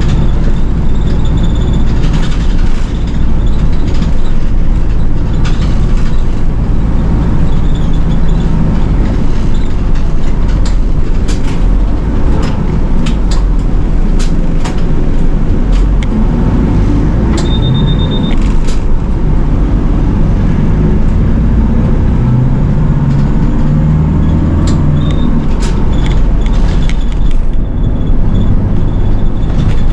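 City bus's diesel engine and road noise heard from inside the bus while driving, a steady loud rumble that rises and falls with the engine speed, with scattered clicks and rattles. A short high beep sounds about 17 seconds in.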